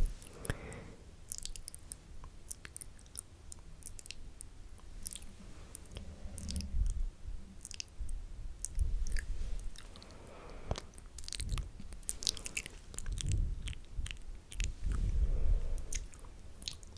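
Wet mouth sounds close to the microphone: many quick, irregular lip and tongue clicks and smacks, with a few dull low rumbles from breath or contact on the mic.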